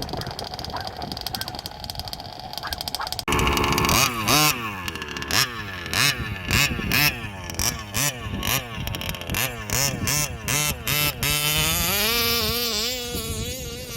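A race-ported Zenoah G320RC 31.8cc two-stroke RC engine revving hard, its pitch climbing and dropping again and again as the throttle is blipped. Near the end comes a longer pull where the revs climb and hold. For the first three seconds or so there is only a quieter, steady engine drone, and then the sound suddenly gets much louder.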